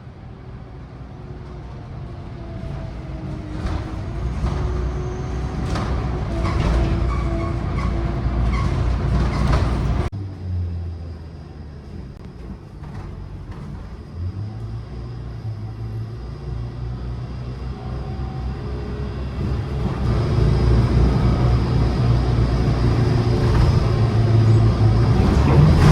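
City bus engine and road rumble heard from inside the moving bus, the engine note rising and falling with a few rattles. The sound drops off abruptly about ten seconds in, then the engine builds again and gets louder toward the end.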